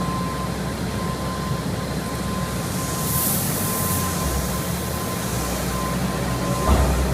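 Truck engine running steadily with a low rumble and a thin steady whine. A high hiss comes about three seconds in and lasts about a second, and a short thump comes near the end.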